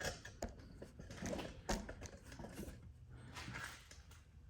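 A few faint, scattered clicks and knocks of hands handling and repositioning a camera.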